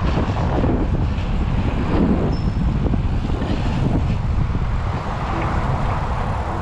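Wind buffeting the microphone while riding a bicycle, a steady low rumble.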